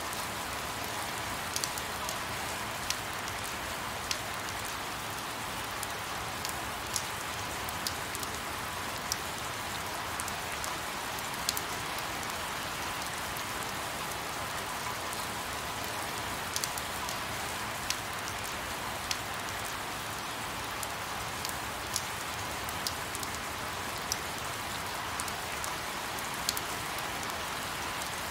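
Sped-up recording of steady rain: a dense, even hiss with scattered sharp drop clicks.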